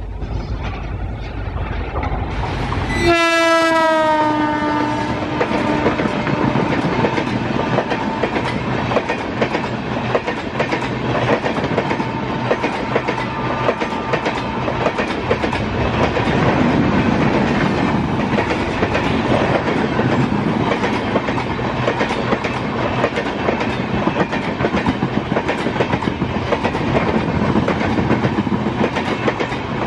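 An Indian Railways express train passing at speed. About three seconds in, its horn sounds for about three seconds and drops in pitch as it goes by, followed by the steady clickety-clack of coach wheels over the rail joints.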